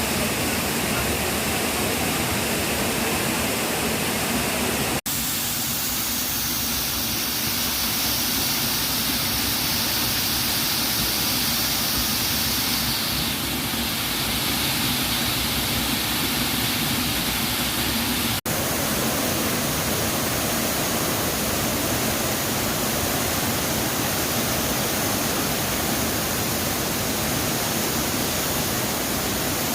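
Düden Waterfall's falling water rushing in a loud, steady wash of noise, broken by two split-second gaps, about 5 and 18 seconds in.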